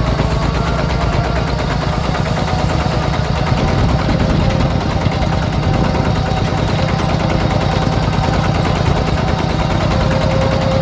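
Yanmar diesel engine on a homemade mini tractor running steadily, with a fast, even clatter of firing strokes.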